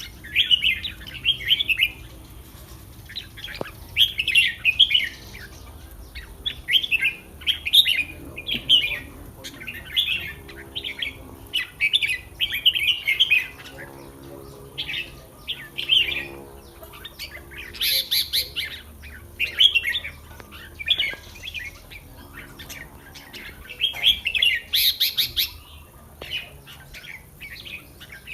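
Red-whiskered bulbul singing short, bright warbled phrases over and over, about one phrase every second or two.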